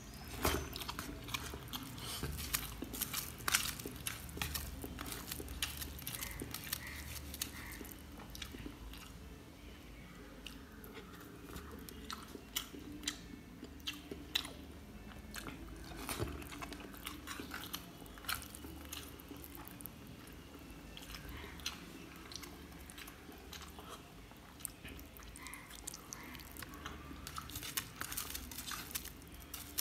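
A person eating rice and chicken curry by hand: close-up chewing with many irregular, sharp mouth clicks, and fingers mixing the rice on a metal plate. A steady low hum runs underneath.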